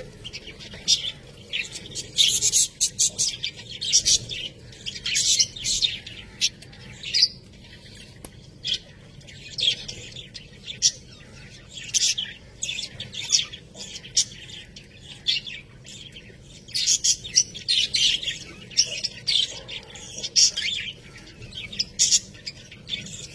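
Budgerigars chirping and warbling in quick irregular bursts, with the odd squawk.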